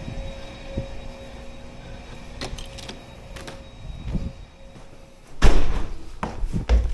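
A door sliding and being handled, with clicks and then loud thumps and rustling near the end, over a faint steady hum in the first half.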